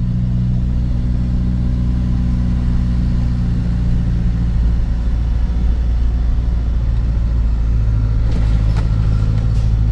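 Truck engine running at low speed, a steady low drone heard from inside the cab, with a slight change in its note near the end.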